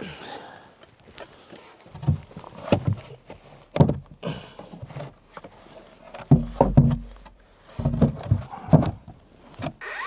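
Irregular hollow wooden knocks and thumps as pieces of lumber are handled and set into place, in several clusters with the heaviest thuds a little past the middle.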